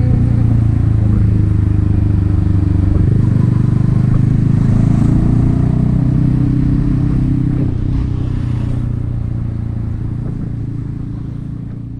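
Yamaha XSR 155's single-cylinder engine running through an aftermarket M4 exhaust, a steady low note, growing gradually quieter over the last few seconds.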